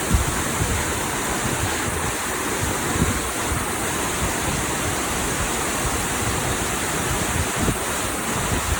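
Steady rushing roar of a large waterfall, with wind buffeting the microphone in a few low thumps.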